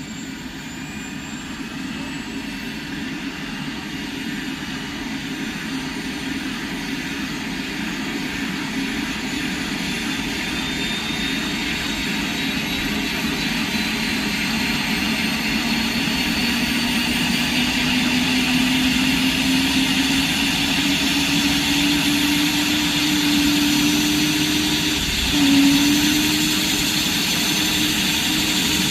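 Airbus H145 (BK-117 D-3) helicopter's twin turboshaft engines and rotor, a turbine whine and a lower drone both rising slowly in pitch and growing louder as they spool up, with a short jump in level near the end.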